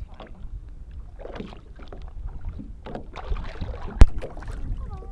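Handling noise in a small fishing boat: low wind rumble on the microphone with scattered rustles and scrapes, and one sharp knock about four seconds in.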